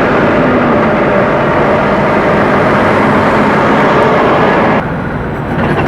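Heavy diesel truck running close by, loud and steady engine and road noise, which drops off abruptly near the end.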